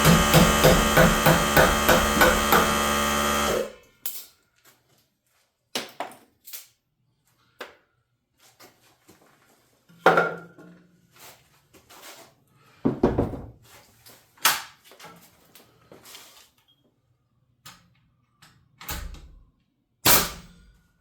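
A power tool runs with a steady whine and a regular pulsing, then stops sharply about three and a half seconds in. After it, scattered knocks and thuds of lumber and tools being handled.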